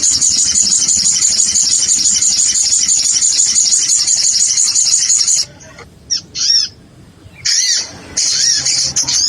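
Lure recording of sogon sunbird calls: a loud, rapid run of high chirping for about five seconds that stops suddenly, followed by a few separate, shorter strings of arching call notes.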